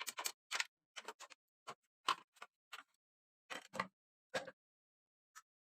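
Irregular clicks and clacks of small hard objects being handled: about a dozen in quick, uneven succession, then one lone click near the end.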